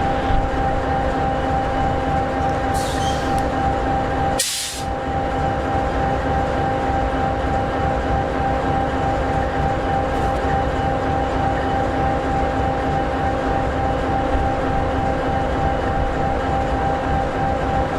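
EMD 16-710G3B sixteen-cylinder two-stroke turbocharged diesel of an SD60E locomotive idling steadily, with a steady whine over the engine's drone. A short hiss sounds near 3 seconds in, and the sound briefly breaks about four and a half seconds in.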